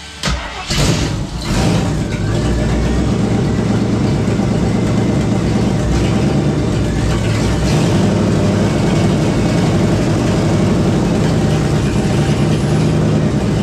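AMC 360 V8 in a 1976 Gremlin firing up with a few sputters in the first two seconds, then catching and running steadily at idle. Only one muffler is fitted on its new exhaust.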